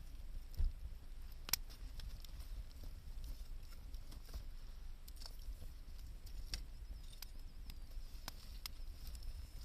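Wood fire crackling: irregular sharp pops and snaps over a steady low rumble and faint hiss. There is a dull thump about half a second in and the loudest pop about a second and a half in.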